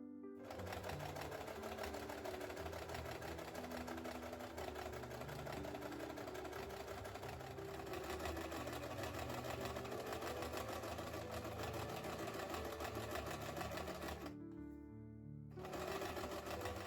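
A small machine running with a fast, even ticking clatter. It stops for about a second near the end, then starts again, over soft background music.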